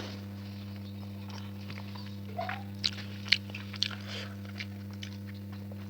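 Close-miked eating sounds: a person chewing and biting, with a few sharp crunches a little past the middle, over a steady low hum.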